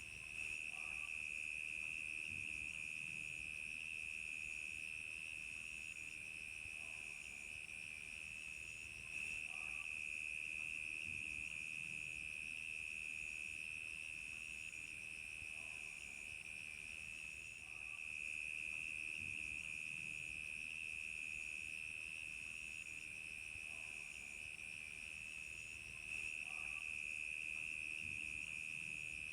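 Crickets chirping in a steady night chorus: a continuous high trill, with a higher, thinner call pulsing about once a second over it.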